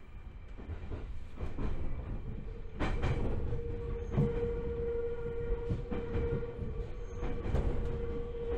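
Joshin Electric Railway 7000 series electric train running, heard from inside the car: wheels click over rail joints every second or so over a steady rumble. A steady whine comes in about three seconds in, as the sound grows louder.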